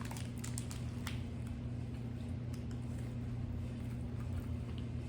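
A person biting into and chewing a spicy fried chicken sandwich, a few faint clicks and soft mouth sounds over a steady low hum.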